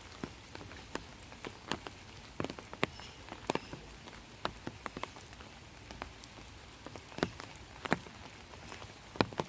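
Rain falling, with a steady hiss and irregular individual drops tapping close by, several a second.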